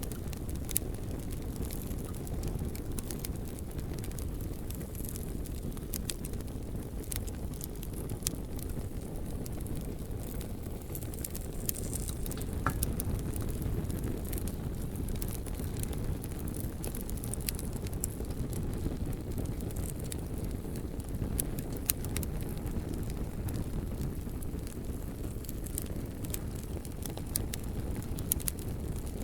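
Campfire crackling and burning, with frequent irregular sharp pops and snaps over a steady low rumble.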